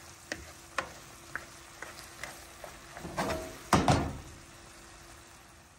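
Fresh corn frying in butter in a skillet, a faint sizzle, with scattered clicks and knocks from stirring in the pan, the loudest a little past the middle. Most of the liquid is cooking off.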